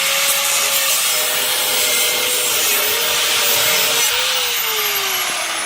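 Angle grinder with a cutoff disc cutting through steel exhaust pipe, a loud hissing grind over the motor's steady tone. About four seconds in the trigger is let go, and the motor's pitch slides down as the disc spins down.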